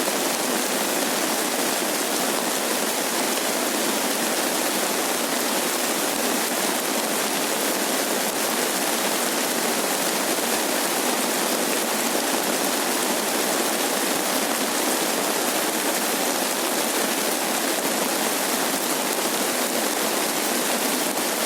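Steady rain falling, an even, unbroken hiss with no distinct drops or thunder.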